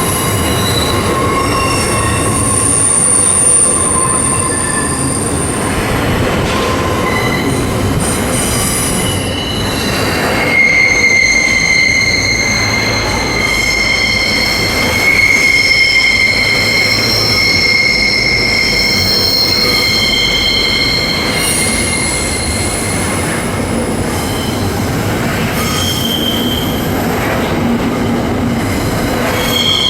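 Freight train wheels squealing against the rails on curved track: several long, high-pitched squeals overlapping and shifting in pitch, over a steady rumble of the train rolling.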